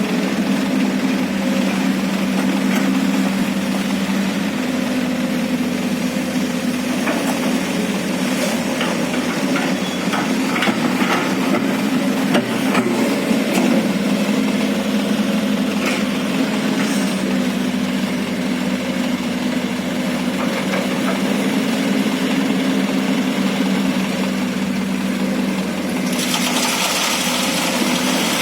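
Excavator's diesel engine running steadily, its hum wavering as it takes load during digging and loading of sand, with scattered knocks and clanks in the middle. A hiss comes in near the end.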